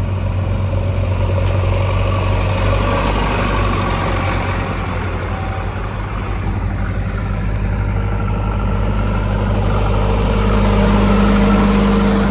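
Heavy vehicle's diesel engine running steadily close by, a little louder for a few seconds near the end.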